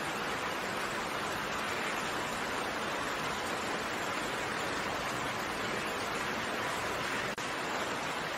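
Steady rain, an even hiss of raindrops with no separate drops standing out, broken by a brief dropout about seven seconds in.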